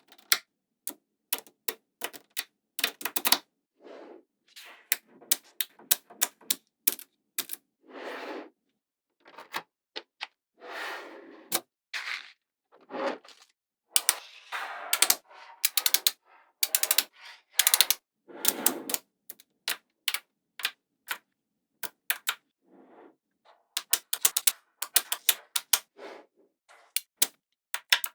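Small magnetic balls clicking and snapping together as they are placed one by one in irregular sharp clicks, with a few longer, softer rattling stretches in between.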